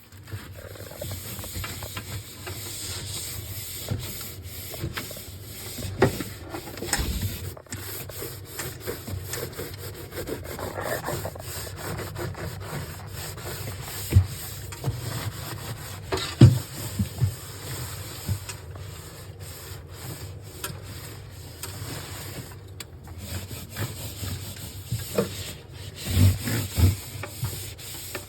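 Scrubbing and wiping, a continuous rubbing sound broken by occasional sharp knocks, as a fridge's surfaces are cleaned by hand.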